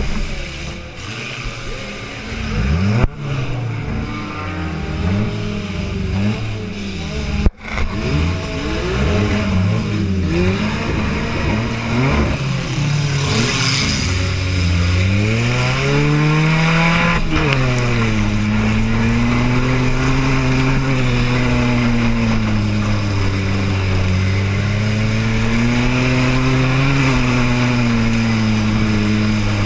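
Small car's engine heard from inside the car during a derby race, revving up and down, with two sharp bangs about three and seven seconds in. From about halfway it settles into a steadier engine note that swells and eases slowly.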